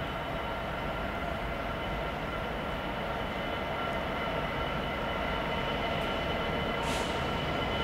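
A train running at a station platform: a steady hum holding several fixed tones that slowly grows louder, with a short hiss about seven seconds in.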